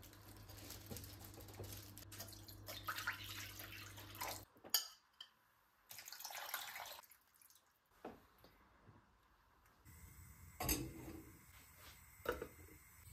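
Kitchen sounds heard in short edited snippets: water running from a tap, and dishes and utensils clinking, with a few sharp knocks. A steady low hum stops abruptly about a third of the way in.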